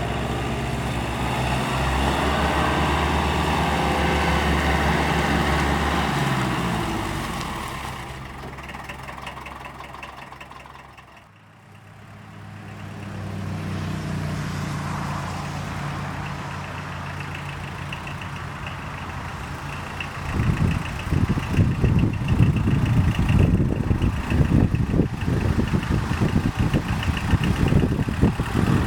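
Mercedes-Benz OM 636 four-cylinder diesel of an Esslingen DZ 10 tractor running, fading away to almost nothing about eleven seconds in and then coming back. In the last third it is louder and rough and uneven.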